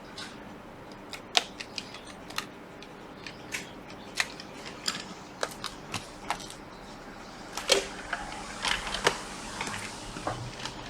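Scattered light clicks and taps of small laptop parts and tools being handled on a workbench, irregular and a few a second at most, over a steady faint hiss.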